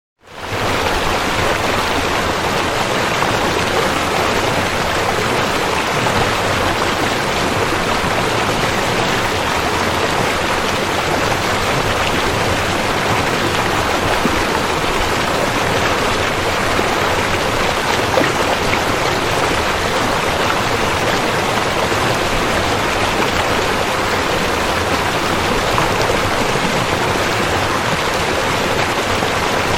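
River water flowing and rushing steadily. The sound drops out for a moment at the very start, then comes back.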